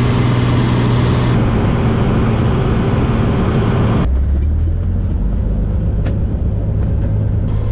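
Seaplane's propeller engine running with a steady loud drone heard inside the cabin; the sound changes abruptly about four seconds in, as at an edit.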